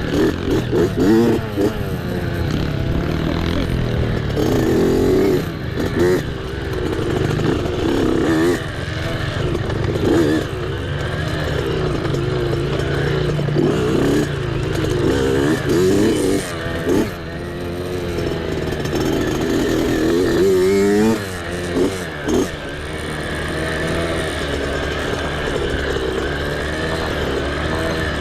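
Mini bike engine revving up and down over and over as it is ridden hard off-road, its pitch rising and falling every second or two.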